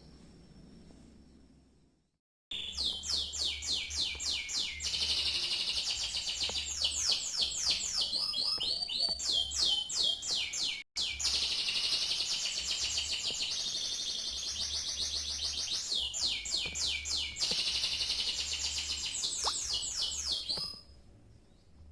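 Domestic canary singing a long song of very fast trills and rolls, starting about two seconds in, briefly cut off near the middle, and fading out near the end.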